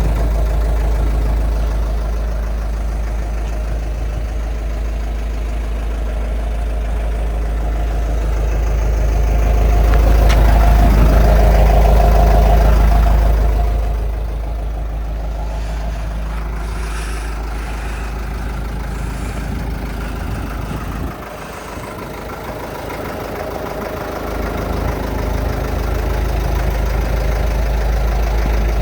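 Engine of a Morooka MST600 crawler dump truck running steadily with a low hum. It grows louder for a few seconds partway through and then eases back, dips briefly, and picks up again near the end.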